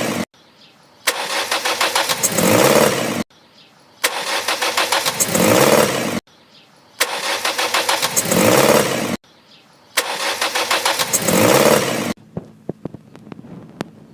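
Great Wall Florid engine cranked on the starter four times, each try about two seconds of rapid, even cranking that is cut off sharply, with a short pause between tries. The engine is hard to start, which the owner puts down to misfiring and dirty injectors.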